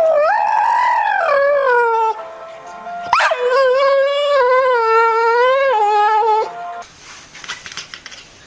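A dog howling twice: a first howl that rises and falls over about two seconds, then a longer, wavering howl of about three and a half seconds that stops abruptly.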